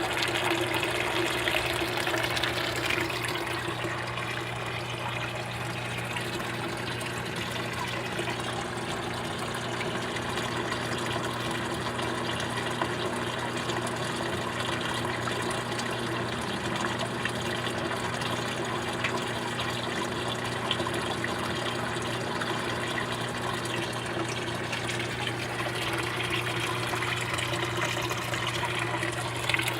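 Water running and splashing steadily, as in a fish tank or pond with circulating water, over a steady low hum.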